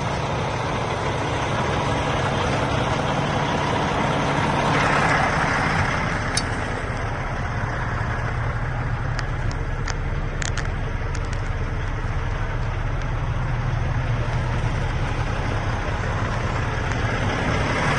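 Diesel engine of a 2020 International LT625 truck tractor idling steadily, with a brief swell in noise about five seconds in and a few light clicks a little later.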